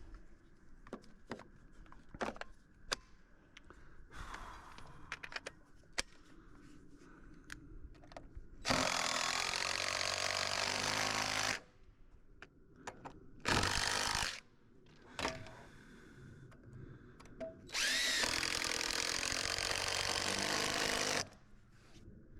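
An electric power tool runs in three bursts: about three seconds, then about one second, then about three seconds. Before them come a string of light knocks and clicks from handling.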